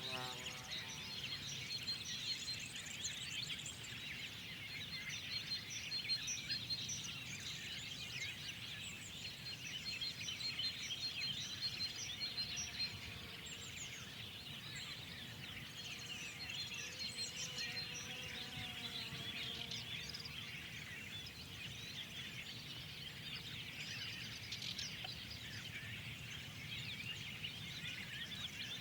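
Many songbirds chirping and singing at once in a dense spring chorus, with a thin, rapidly repeated high note through the first half, over a steady low background rumble.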